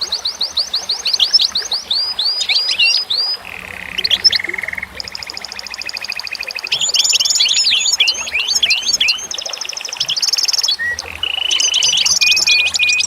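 Several songbirds singing over one another: quick series of sweeping chirps, buzzy trills and repeated short phrases, continuing without a break.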